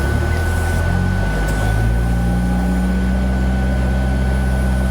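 Case 590 Super N backhoe's diesel engine running, heard from inside the cab, with a steady high whine over it. The engine note steps up about one to two seconds in, then holds steady.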